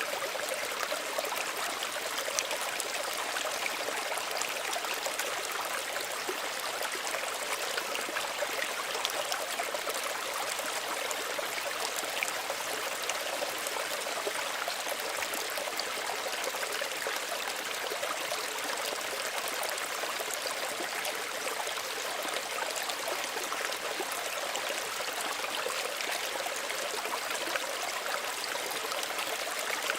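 Small stream running over stones, a steady trickling and burbling with tiny splashes throughout.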